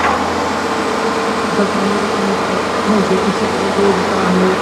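Steady engine drone with a voice faintly over it from about a second and a half in.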